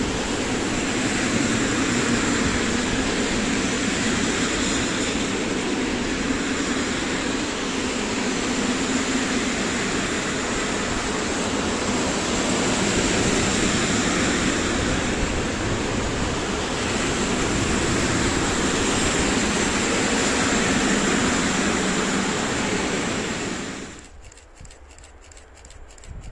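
Long freight train of loaded open coal wagons rolling past: a steady rumble and rush of wheels on rail. It cuts off abruptly about 24 seconds in, leaving a much quieter background with a few faint clicks.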